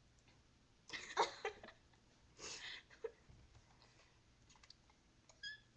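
A few short breathy exhalations and mouth noises from people sucking on sour candy, the loudest about a second in and another about two and a half seconds in, with a brief squeak near the end.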